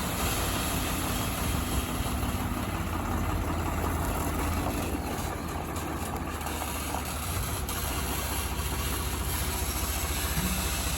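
A heavy diesel engine idling steadily with an even, rapid low rumble.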